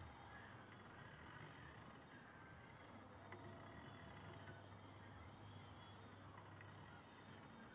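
Very faint whine of the small stepper motors salvaged from old DVD drives, moving the axes of a mini CNC machine, over a low steady hum. It is a little louder for a couple of seconds in the middle.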